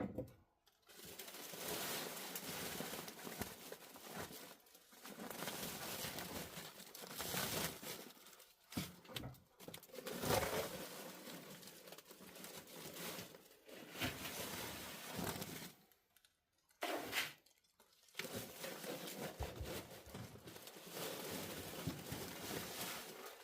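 Rustling and crinkling of a chick-feed bag being handled, in stretches of a few seconds broken by short pauses.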